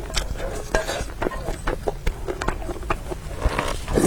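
Close-up eating sounds: a quick run of mouth clicks and smacks from chewing noodles, with light utensil ticks, over a steady low hum.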